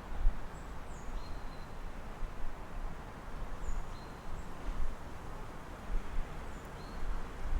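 City ambience through an open window: a steady background hum with irregular low rumbles, and a few short high bird chirps, about one second in, around four seconds in and near the end.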